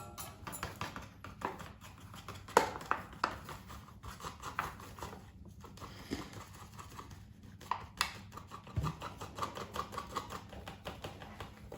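Scattered small clicks, taps and rustles of kitchen items being handled while the flour is got out for pancake batter, with one sharper knock about two and a half seconds in.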